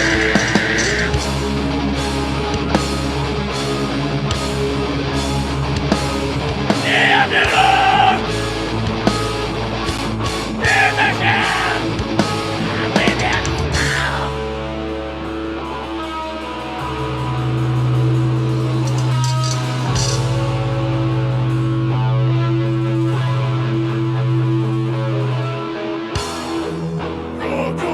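Live heavy metal band playing: drums, guitars and bass with vocals in the first half. About halfway through the drums drop out and long held guitar and bass notes ring on.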